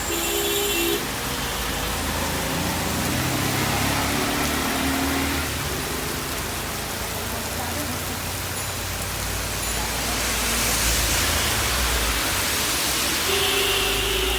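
Steady rain falling, an even hiss, with brief pitched sounds near the start and again near the end.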